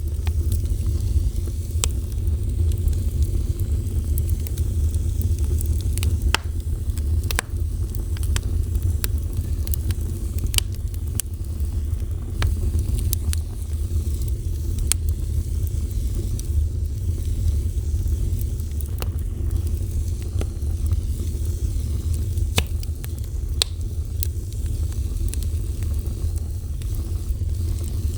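Wood fire burning: a steady low rumble of flames with irregular sharp crackles and pops from the burning wood.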